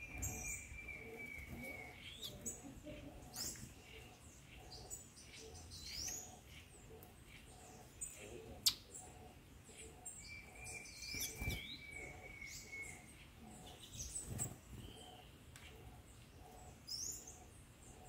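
Several songbirds chirping and calling: quick high chirps and short sweeping notes throughout, with a long, thin, steady whistle at the start and again about ten seconds in. A single sharp click about halfway through.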